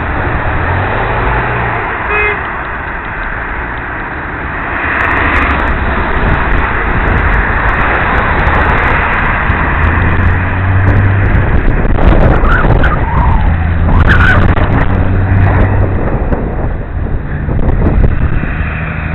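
Wind buffeting a helmet-mounted camera's microphone while cycling, a loud continuous rush and rumble. A brief short tone sounds about two seconds in.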